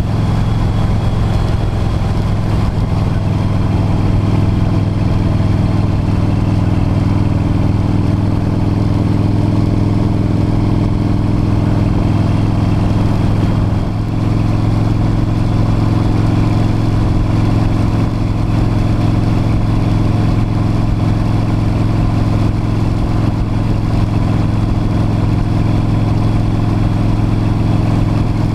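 V-twin motorcycle engine running steadily at cruising speed, heard from a camera riding on the bike. Its pitch stays nearly constant, with a brief dip in level about halfway through.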